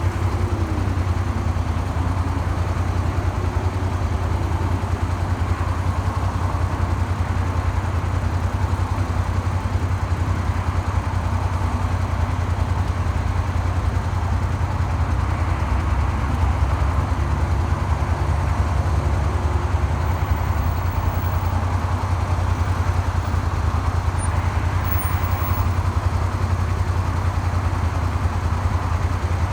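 Suzuki SV400 V-twin motorcycle engine running steadily: a low rumble under an even rushing noise. This engine has a knock after a makeshift crankshaft repair done with a file.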